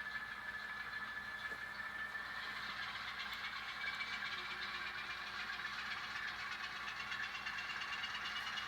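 N scale model Alco S4 switcher locomotive running slowly along the track, a steady hum and whine with a higher tone rising near the end.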